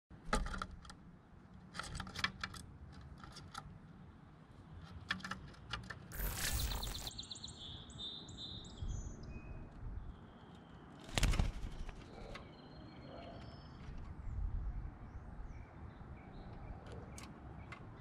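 A scatter of sharp clicks and knocks in the first few seconds, like a camera being handled and mounted, then a burst of rustling. Birds call with high whistled notes, some stepping down in pitch, and a louder thump or rustle comes about eleven seconds in.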